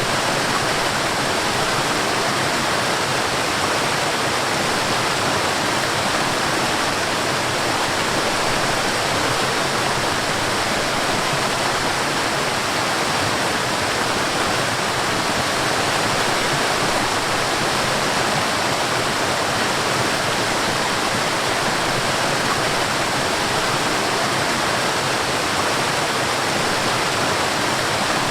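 Mountain stream and small waterfalls rushing over rocks: a steady, even roar of falling and flowing water.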